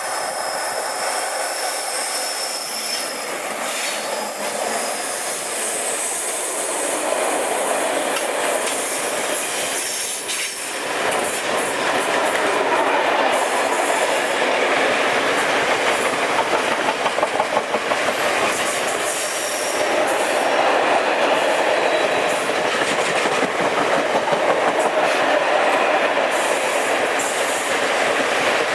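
Train rolling along the track, a steady rumble of wheels on rail. High squealing tones sound in the first few seconds, and later there is a fast rhythmic clatter of wheels over rail joints.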